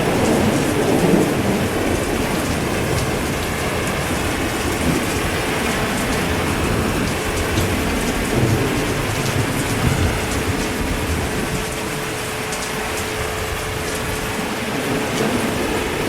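Steady heavy rain pattering down, with low rolling thunder rumbling underneath in uneven swells.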